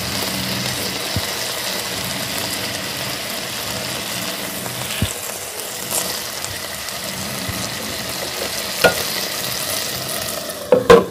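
Chicken and vegetable skewers sizzling steadily in hot oil in a non-stick frying pan. A few light knocks come as the skewers are handled and turned, with a cluster of louder, sharper clacks near the end.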